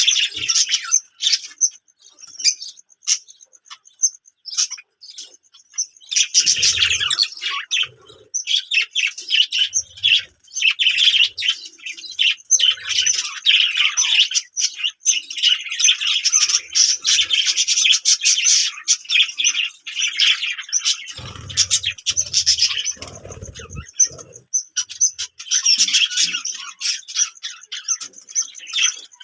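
Small birds chirping and twittering in dense, rapid runs, with a lull a couple of seconds in and another near the end. A few low knocks or rustles come through about three-quarters of the way in.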